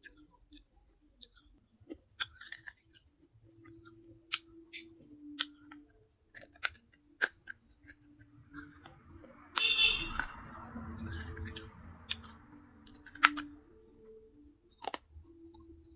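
Baked clay pot pieces being crunched and chewed in the mouth, heard as scattered sharp clicks and cracks. A loud crunching bite about ten seconds in is followed by a couple of seconds of grinding chewing, with another sharp crack a few seconds later.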